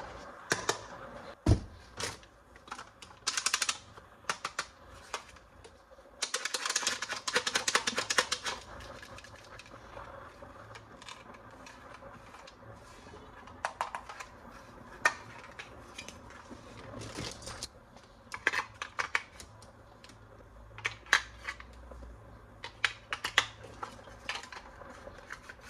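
Plastic toys and packaging being handled in an unboxing: irregular light clicks, taps and rattles, with a run of rapid clicking about a quarter of the way in.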